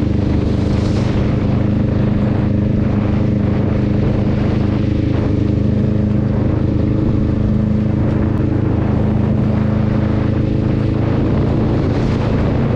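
Honda Rebel 500's parallel-twin engine running at a steady speed while cruising, under a steady hiss of wind and road noise.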